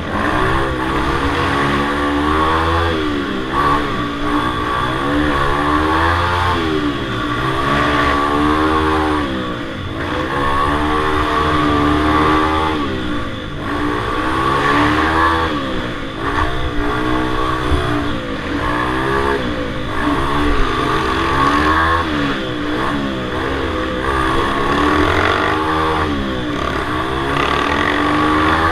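Several small minibike engines racing together, each revving up and falling off over and over, about every one to two seconds, as the bikes go round a tight circle track.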